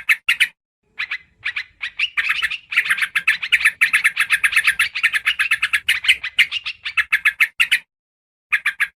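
Yellow-vented bulbul (trucukan) chattering as a lure call: quick runs of short, sharp chirps, a few scattered notes at first, then a long dense chatter through the middle that stops abruptly, and a few more chirps near the end.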